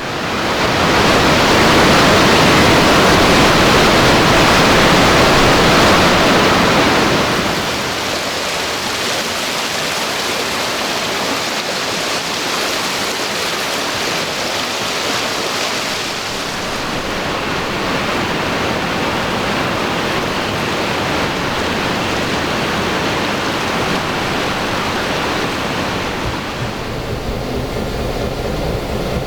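Steady rushing noise of a moving excursion train heard from on board. It is loudest for the first several seconds, then settles lower, and a low engine hum comes in near the end.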